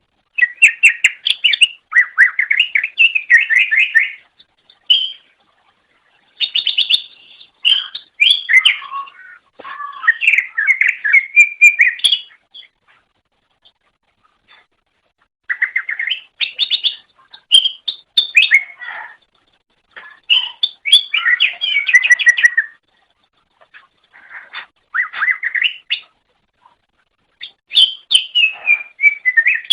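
Cucak ijo (green leafbird) singing in repeated phrases of rapid, warbling, gliding notes, each phrase lasting a few seconds and separated by short pauses.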